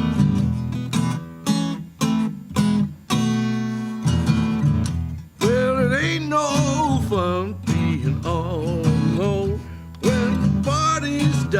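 Acoustic guitar strummed in a blues song's introduction, sharp chord strokes throughout, with a wavering melody line entering over the guitar about halfway through.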